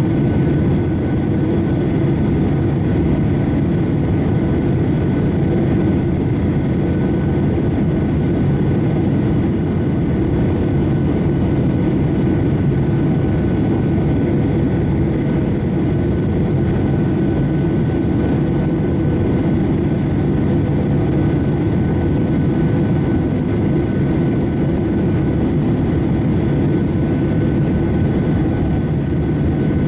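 Boeing 737-800's CFM56 jet engines and airflow, a steady low rumble with faint, steady high whining tones over it.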